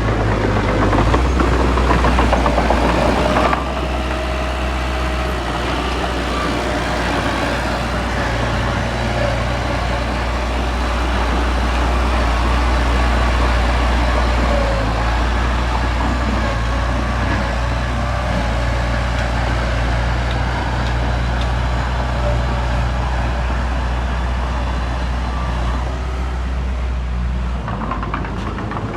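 Diesel engine of heavy earthmoving machinery running steadily under a rough mechanical clatter, dropping slightly in level about three and a half seconds in.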